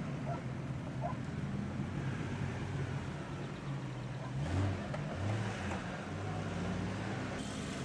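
Engine of a Jeep SUV driving off-road through sand, its low note rising and falling with the throttle, louder for a moment about halfway through.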